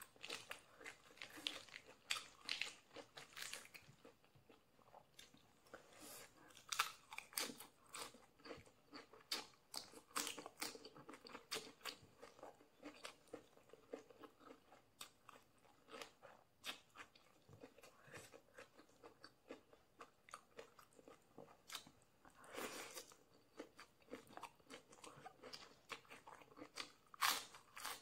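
Close-miked chewing of crisp raw salad vegetables, lettuce leaves among them: a run of small wet crunches and mouth sounds, with a few louder crunches scattered through.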